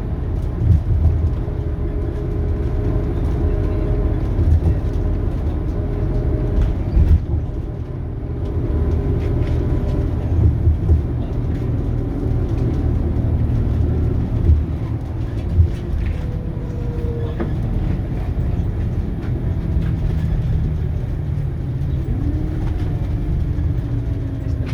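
Scania DC9 five-cylinder diesel bus engine running under way through its ZF Ecomat automatic gearbox. A steady low rumble carries engine notes that shift in pitch a few times, rising about 22 seconds in, with occasional knocks and rattles.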